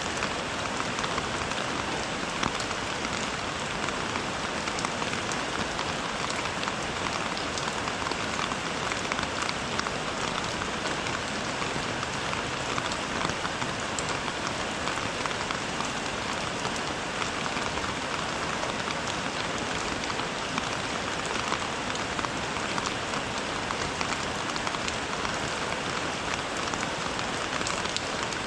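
Steady rain falling, a dense patter of countless drops striking a surface, even and unbroken.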